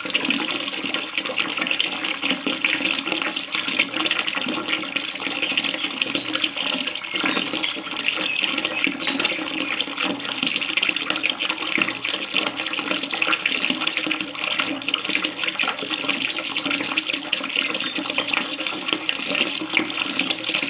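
Running water splashing and trickling steadily, a continuous busy patter without pause.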